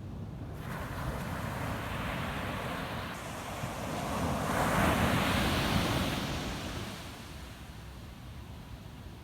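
Ocean waves breaking on a beach: a rush of surf that builds to its loudest about five seconds in, then washes away and fades.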